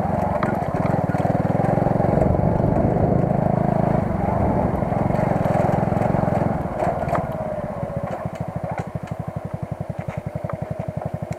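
Motorcycle engine running, then dropping back to a slow idle about seven seconds in, with distinct, evenly spaced beats.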